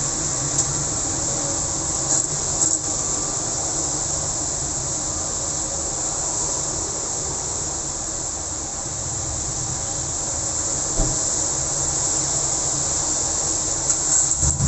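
Steady hiss of heavy rain falling, over a low rumble of road traffic, with a few brief knocks about two seconds in and near the end.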